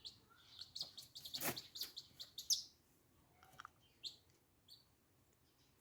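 Small birds chirping: a quick run of short high chirps over the first three seconds, then only a few scattered ones.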